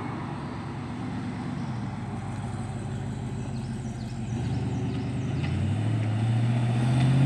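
A car engine running, growing louder from about four seconds in, with its note rising as it accelerates near the end.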